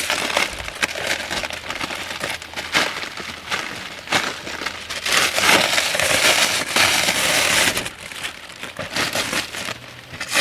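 Thick plastic wrapping on a rolled mattress topper crinkling and rustling as it is handled and pulled at, in irregular flurries.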